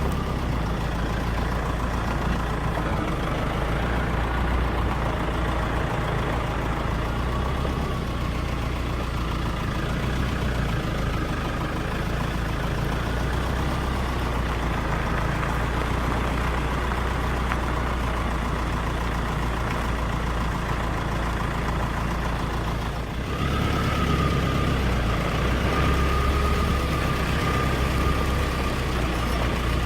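Safari game-drive vehicle's engine running steadily while driving. About 23 seconds in it drops briefly, then comes back louder with a thin, high whine.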